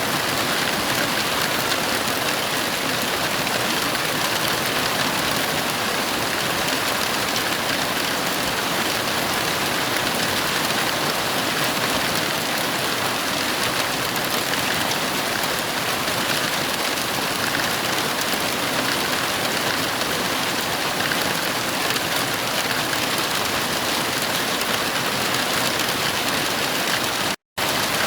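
Heavy rain falling, a steady dense hiss with no thunder, broken by a split-second dropout to silence near the end.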